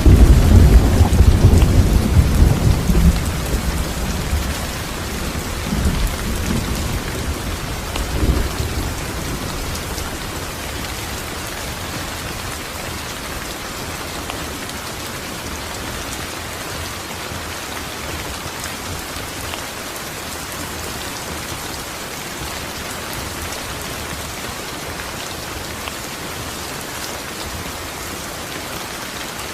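Steady rain with a long roll of thunder in the first few seconds that rumbles, swells again a couple of times and fades away by about ten seconds in, leaving the even hiss of the rain.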